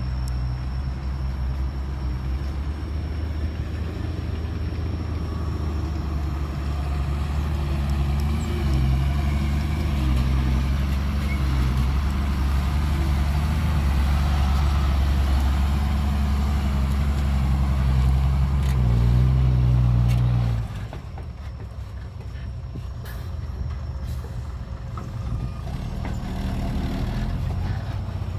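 Heavy diesel engine of construction machinery running hard under load. It rises in pitch and loudness near two-thirds of the way through, then drops suddenly to a quieter, lower running sound.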